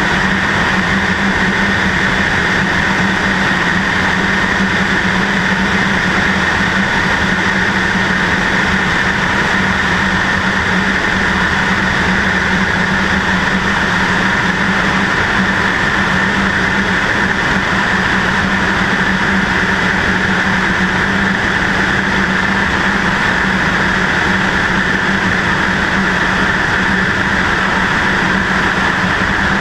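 Cessna 152's four-cylinder Lycoming O-235 engine and propeller running at a steady, even pitch, mixed with a rush of air, heard from a camera mounted on the left wing.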